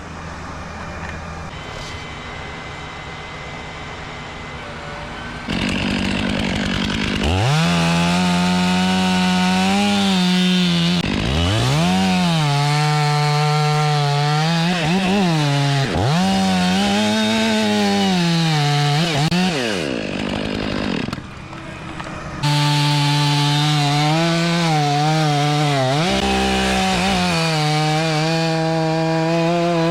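Chainsaw cutting wood. A low steady engine hum at first, then from about seven seconds in the saw runs at full throttle under load, its pitch sagging and recovering again and again as it works through the cut. About two-thirds of the way through it drops back briefly, then throttles up again.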